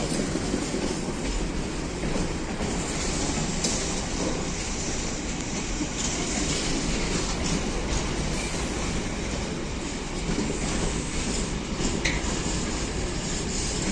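A train running steadily along the rails, a continuous rumble of wheels on track.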